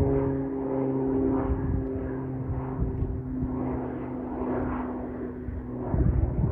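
Quest Kodiak 100's single Pratt & Whitney PT6A turboprop and propeller at takeoff power, a steady droning hum whose higher tones fade about halfway through as the plane draws away. Wind buffets the microphone near the end.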